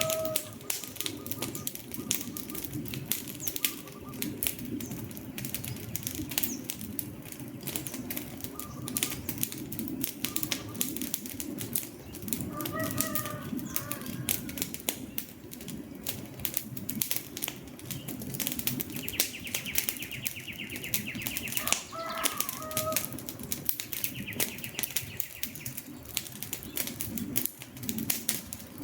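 Wood fire crackling and popping constantly over a low rush of flames. Short bird calls sound twice in the background, and a high, fast trill comes in twice in the latter half.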